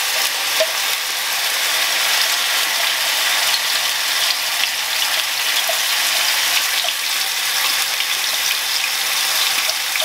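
Garlic and ginger paste sizzling in hot olive oil in a frying pan, a steady loud hiss, with light ticks from a plastic spatula scraping the paste out of a chopper bowl.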